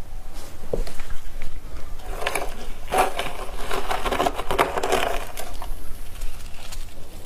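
Humidifier frost ice crunching: scattered sharp clicks, then a dense run of crackles and scrapes through the middle few seconds, thinning out again near the end.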